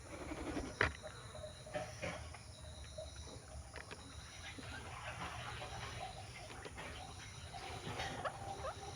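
A flock of birds feeding, with scattered sharp pecking clicks and short faint calls. The loudest click comes about a second in.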